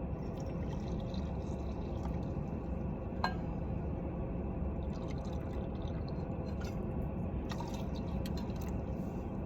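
Hot water pouring and trickling into a cup, with a single sharp click about three seconds in.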